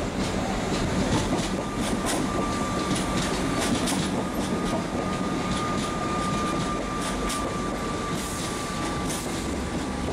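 Suburban electric passenger train running through a station, with a steady rumble of wheels on rail and repeated clicks over the rail joints. A thin, steady high-pitched whine sounds from about a second and a half in until near the end.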